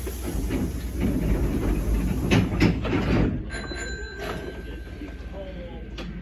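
Inside the cab of a Hankyu commuter train standing at a station platform: a low rumble with a run of knocks and clatter about two to three seconds in, then a thin steady high tone from about halfway.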